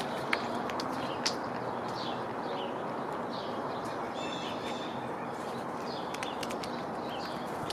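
Wild songbirds chirping around a backyard bird feeder: short scattered high chirps, with a longer call about four seconds in, over a steady outdoor hiss. Two sharp clicks stand out in the first second and a half.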